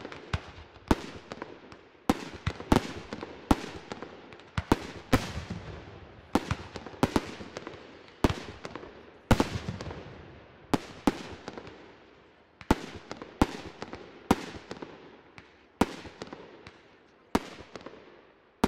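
Fireworks display: a steady run of sharp bangs, about one or two a second, each trailing off in an echoing rumble.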